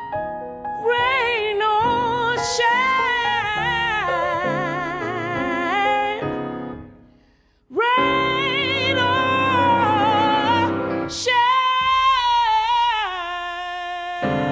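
Female jazz singer holding long notes with vibrato over piano accompaniment. About seven seconds in the music fades out for a moment, then a new note slides up into place and the phrase steps down toward a close.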